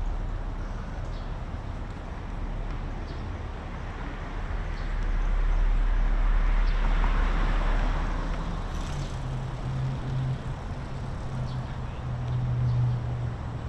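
City road traffic: a steady low rumble, with a vehicle passing by that swells and fades about halfway through, then a low engine hum.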